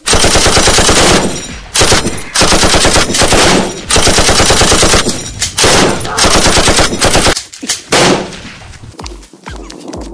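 Automatic machine-gun fire in four long rapid bursts, each about a second and a half, then one short burst about eight seconds in.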